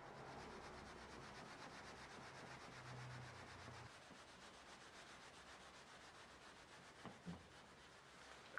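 Faint, steady rubbing from hand work on a Japanese plane (kanna), with a couple of soft knocks about seven seconds in.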